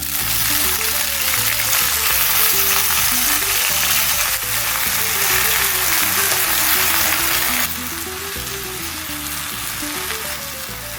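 Spinach sautéing in hot olive oil in a pan, a loud sizzle that starts suddenly and eases to a quieter sizzle about three-quarters of the way through.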